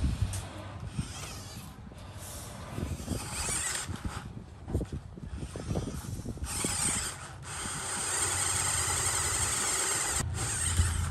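Small RC off-road truck's electric motor and gears whirring, with clattering knocks through the middle, then a steadier high whir from about eight seconds in.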